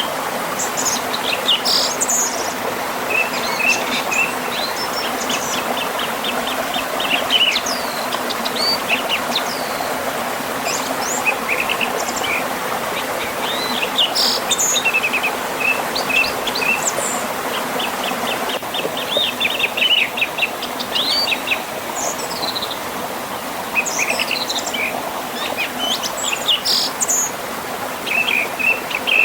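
River flowing past a small waterfall with a steady rush of water, and songbirds singing over it in repeated chirps and quick trills.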